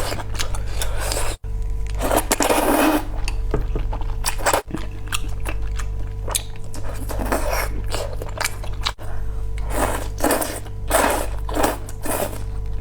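A person eating spicy noodles: several noisy slurps of about a second each among many small wet mouth clicks and chewing sounds, over a steady low hum.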